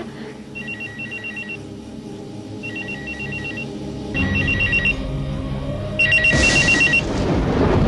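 Electronic telephone ringing in a rapid two-tone trill, four rings of about a second each with short gaps between them. A steady low drone sits underneath and grows louder about four seconds in and again about six seconds in.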